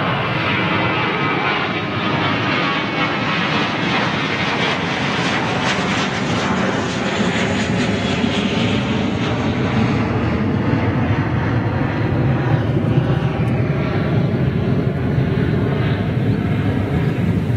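Airliner taking off, its engines at take-off power in a steady loud roar; about halfway through the hiss thins and a deeper rumble grows as it climbs away.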